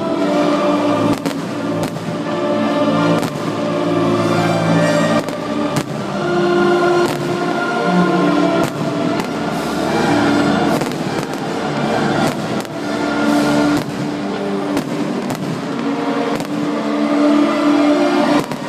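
Fireworks going off in many sharp bangs, irregularly spaced, over loud music that plays throughout.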